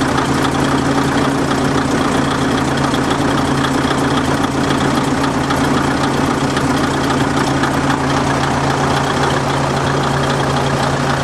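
JNR-type DMH17 eight-cylinder diesel engine of a KiHa 200 railcar idling steadily, with a constant low hum and rumble.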